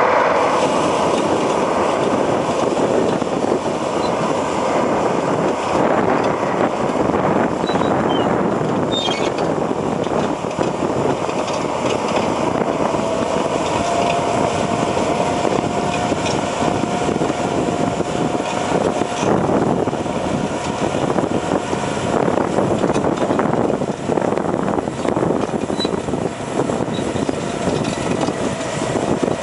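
HBXG SD8N crawler bulldozer working, its Cummins diesel engine running steadily under a dense, irregular rattle. A faint steady whine comes in for several seconds midway.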